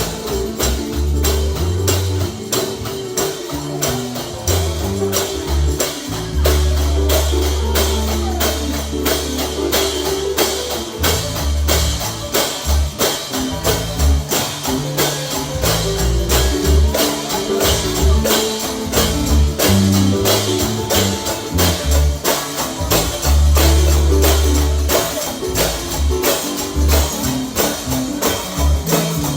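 Instrumental stretch of a gospel song: a tambourine struck on a steady fast beat over a deep bass line.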